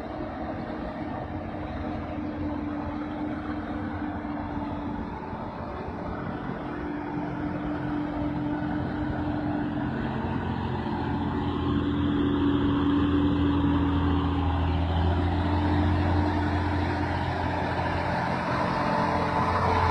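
Bedford truck engine running with a steady low hum, growing gradually louder.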